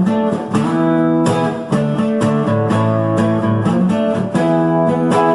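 Instrumental break in a song: a guitar strummed in a steady rhythm.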